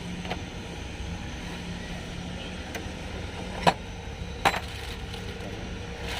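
Two sharp metallic clinks of hand tools, a little under a second apart, over a steady low hum.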